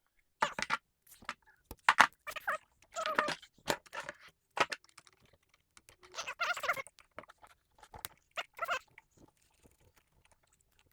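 Irregular clicks, scrapes and crunches of hands and tools working on an old Craftsman chainsaw, taking off parts around the carburetor and handling its stiff, hardened fuel line.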